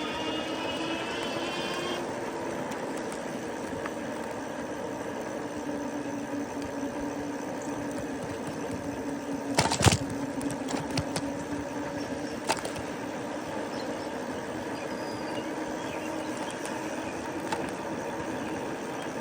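Lectric e-bike's hub motor whining steadily at riding speed over a constant hiss of tyre and wind noise, with one sharp knock about halfway through and a few lighter clicks after it.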